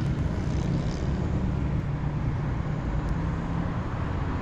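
Steady low rumble of motor-vehicle noise: a car's engine and road noise.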